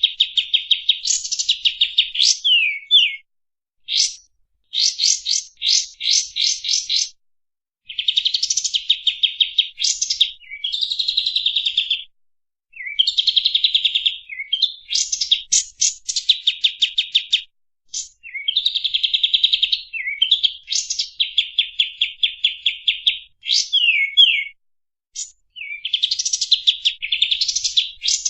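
Kapas tembak songbird singing long, fast phrases of rapidly repeated trilled notes. The phrases last one to three seconds with brief pauses between them, and a few quick sliding notes are mixed in.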